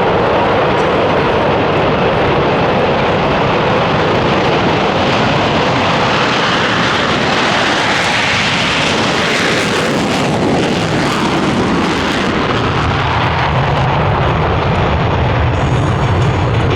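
Blue Angels F/A-18 Super Hornet jet engines running loud and steady in a low pass, with a swell and a sweep in pitch about halfway through as the jets go by.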